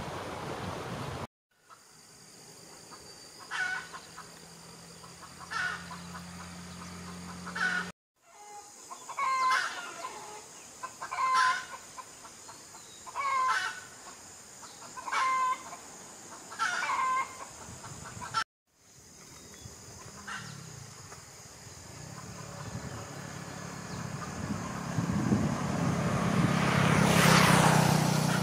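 Short calls of a bird or fowl, repeated about every two seconds, broken by three brief cuts to silence. In the last seconds a vehicle approaches and its noise grows to the loudest point near the end.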